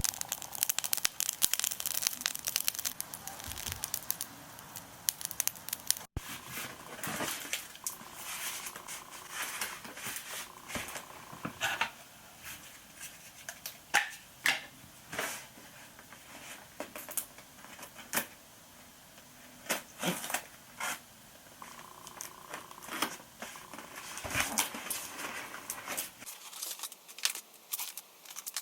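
Packaging being handled and torn open: irregular crinkling and tearing with scattered sharp clicks and snips.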